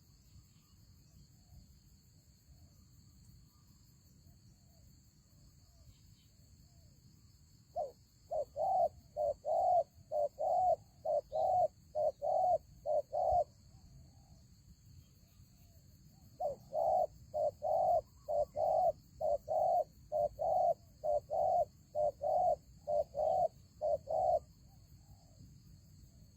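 Spotted dove cooing: two long runs of short, repeated coos, about two a second, the first starting about eight seconds in and the second after a pause of a few seconds.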